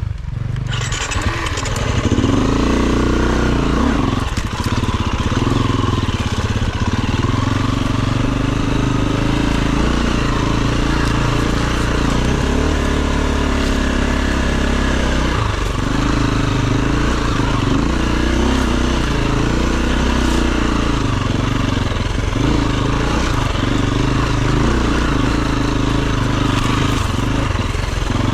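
Enduro dirt bike engine running under way. The revs rise and fall in the first few seconds, then hold fairly steady with brief dips a few times where the throttle comes off.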